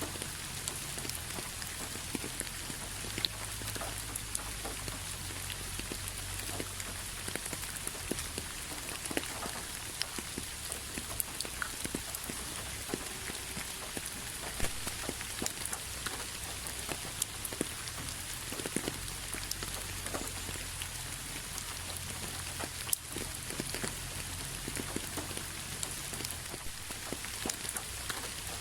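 Steady rain falling on a hard surface, with an even hiss and many separate drops ticking irregularly over it.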